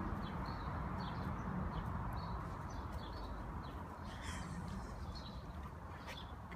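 Outdoor garden ambience: small birds chirping now and then over a steady low background rumble.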